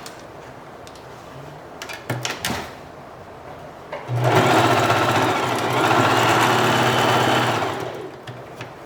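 Electric sewing machine running for about four seconds, stitching a hair weft onto a wig cap, easing off briefly midway before running on and stopping. A few short handling clicks come before it starts.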